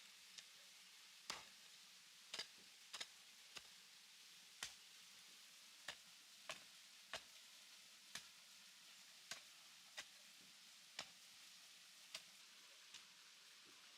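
Faint, sharp ticks or taps that come at uneven intervals, roughly one a second, over a quiet hiss.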